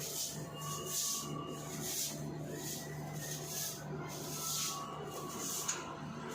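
Split-type air conditioner's outdoor unit running after a refrigerant recharge: a steady low hum with a hiss that swells and fades about once or twice a second, while its current draw settles into the normal range.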